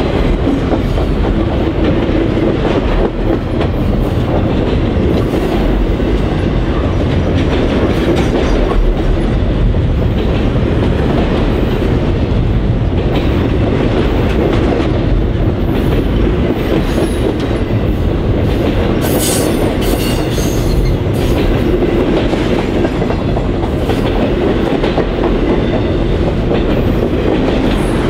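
Long freight train of loaded flatcars rolling steadily past at close range: a continuous rumble with wheels clicking over the rail joints, and a brief high wheel squeal about two-thirds of the way through.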